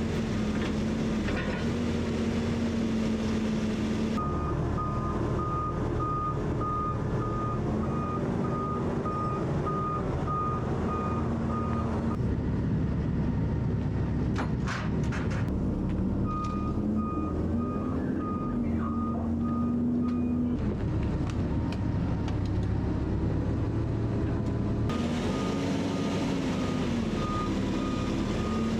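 Truck's reversing alarm beeping steadily at about two beeps a second over the diesel engine running, whose pitch rises and falls as the truck manoeuvres. The beeping stops and starts a few times, with a couple of sharp clicks in a gap about halfway through.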